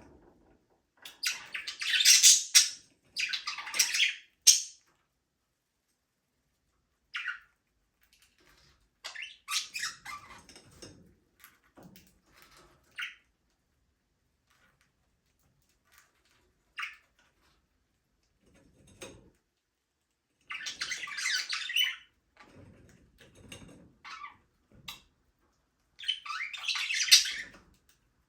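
Budgerigars chattering and squawking in bursts of a second or two, with a few single short chirps between and quiet gaps.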